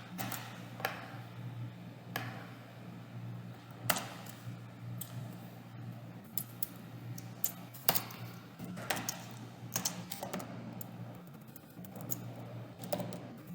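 Typing on a computer keyboard: irregular key clicks in short runs with pauses between, over a steady low hum.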